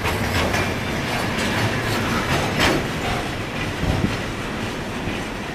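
Freight train cars rolling past at close range: a steady rumble of steel wheels on rail, with a clack from the wheels over rail joints every second or so.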